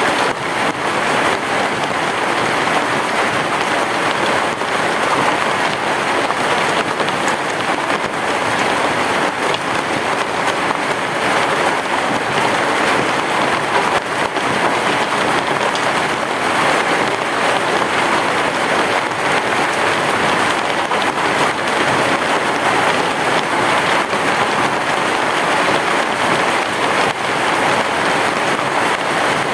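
Heavy rain falling steadily on a roof, a dense even patter with no thunder.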